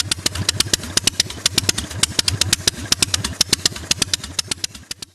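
The PGM V8 motorcycle's 2.0-litre flat-plane-crank V8 engine, built from two Yamaha R1 cylinder banks, running at idle. A low drone is crossed by a rapid, slightly uneven string of sharp exhaust cracks, about nine a second. The sound cuts off abruptly at the end.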